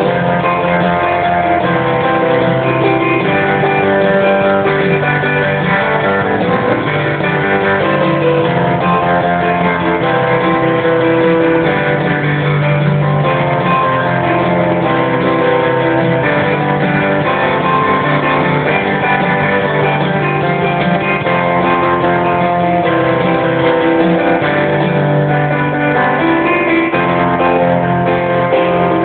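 Guitar playing a riff with chords left to ring out, in a dull, rough-quality recording.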